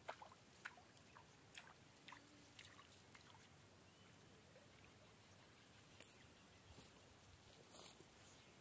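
Near silence: faint background with a few scattered soft clicks and ticks.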